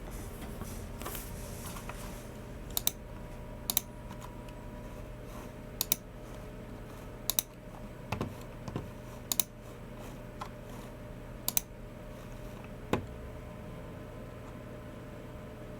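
Unhurried computer work: sharp paired clicks every one to two seconds, each a quick press and release, typical of a Logitech G304 mouse button, with a few softer taps from Logitech MX Keys Mini keys between them. A faint steady hum sits under the clicks.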